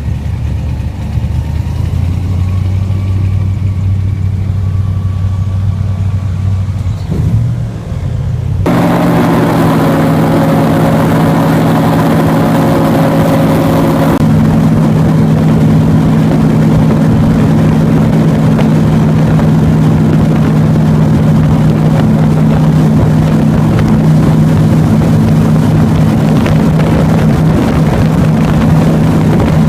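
Airboat engine and propeller running at low speed, then much louder and higher in pitch from about a third of the way in as the boat speeds up, with a rushing propeller and wind noise over the engine.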